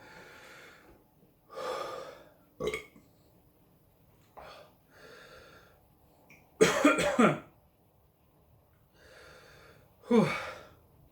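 A man breathing hard through the mouth against the burn of a dried Carolina Reaper pepper just eaten: long exhales a couple of seconds apart. Two of them are louder and voiced, the last falling in pitch.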